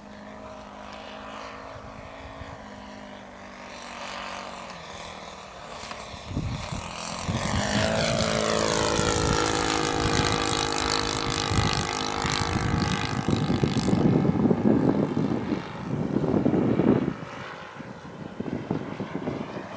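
Propeller airplane engine passing by: it swells about six seconds in, its pitch falls as it passes, and it drops away near the end.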